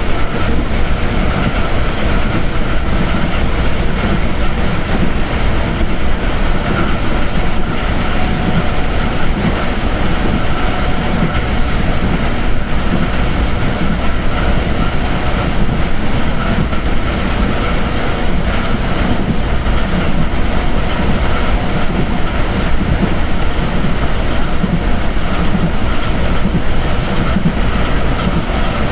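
Passenger train heard from inside a moving carriage: a steady rumble and rattle with the wheels clacking over the rail joints.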